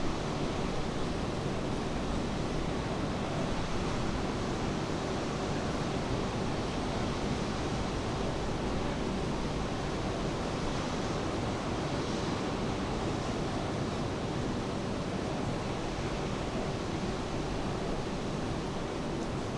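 Steady wash of rain and ocean surf, an even noise with no separate events, over a faint steady hum.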